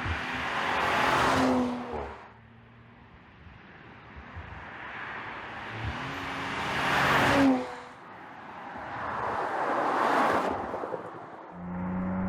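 2020 Audi RS5 Sportback's 2.9-litre V6 driving past three times. Each pass swells up and fades away, its engine note dropping in pitch as the car goes by. A steady low hum follows near the end.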